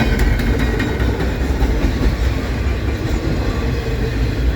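Norfolk Southern double-stack intermodal train's container cars rolling past, a steady rumble of steel wheels on the rails with a few clicks near the start.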